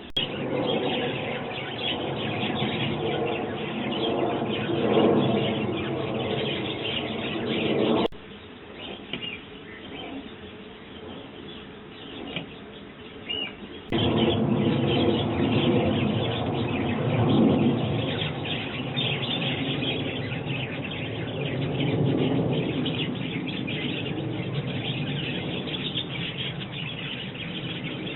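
Sparrows chirping busily at a feeder. The sound drops away abruptly about eight seconds in and comes back just as suddenly about six seconds later.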